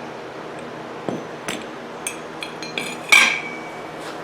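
Steel mower-deck pulley and spindle parts being handled and knocked together: a few light metallic clicks, then a louder clank with a short ringing tail about three seconds in.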